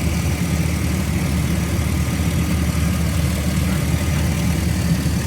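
Pickup truck engine idling steadily, heard close with the hood open.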